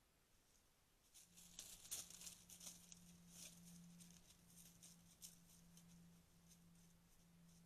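Faint irregular rustling and crackling, starting about a second in and busiest around two seconds, over a steady low hum.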